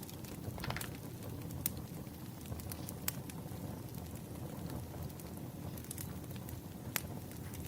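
Firewood burning: a steady low rumble of flames with a few sharp crackling pops scattered through.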